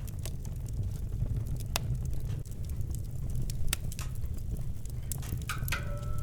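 Campfire crackling, with scattered sharp pops over a steady low rumble of burning. Near the end a short steady whistle-like tone sounds for under a second.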